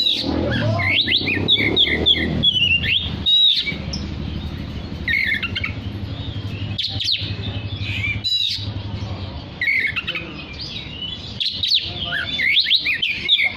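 Oriental magpie-robin singing in bouts of rapid whistled phrases. A low engine hum runs underneath and fades out about two-thirds of the way through.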